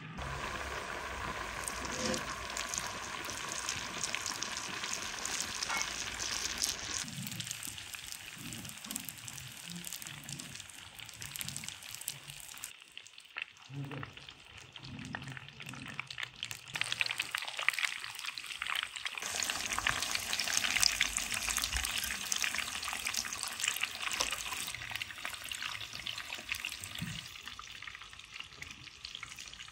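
Stuffed bulgur meatballs deep-frying in a pot of hot oil: a steady sizzle full of fine crackling pops, dipping briefly near the middle and growing louder about two-thirds of the way through.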